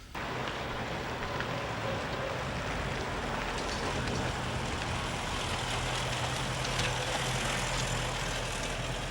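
A car's engine running steadily with road noise, a constant low hum.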